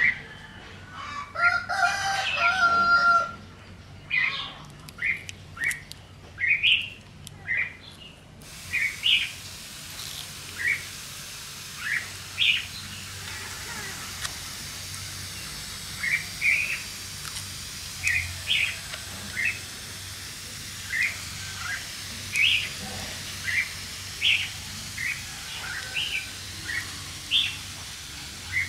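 Birdsong: short chirps repeating about once a second, with one louder, longer drawn-out call about two seconds in. A faint steady hiss joins them about eight seconds in.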